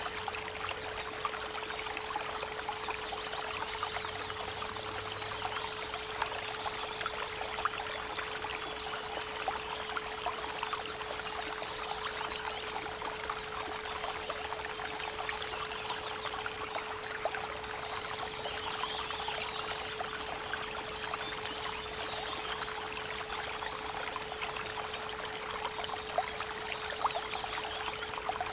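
Creek water running steadily, with a constant pure tone (432 Hz) held underneath. Small birds give short trilled chirps twice, about a third of the way in and near the end.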